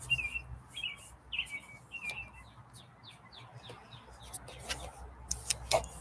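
A small bird chirping repeatedly, about one short chirp every two-thirds of a second, then quicker, fainter notes. A few sharp clicks come near the end.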